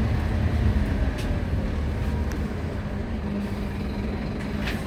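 Scania-chassis Wright Solar Rural bus heard from inside while under way: a steady low engine and road rumble with a faint hum, a few light rattles, growing slightly quieter.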